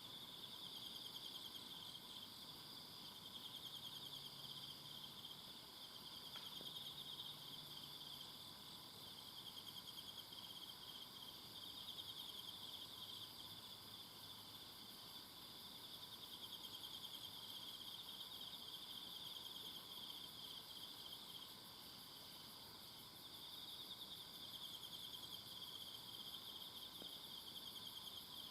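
Faint chorus of singing insects in a forest: rapid pulsing trills, high-pitched, that swell and fade every several seconds over a steady background of other insects.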